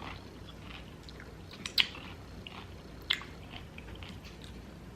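Close-miked chewing of food, with soft wet mouth noises and two sharper crunching clicks, about a second into the second half and again near the three-second mark.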